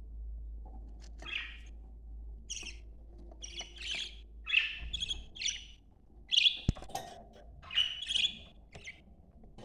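Budgerigars chirping: a run of short, irregularly spaced calls, with a sharp click about two-thirds of the way through.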